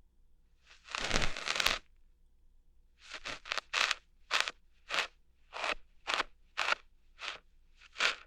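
Ear hair being plucked close to the microphone: a longer crackling pull about a second in, then about ten short, crisp snapping plucks, roughly two a second.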